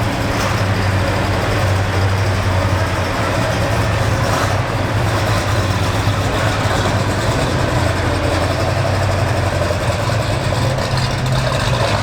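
Muscle car's V8 engine idling steadily with a low exhaust drone, the pitch lifting slightly near the end.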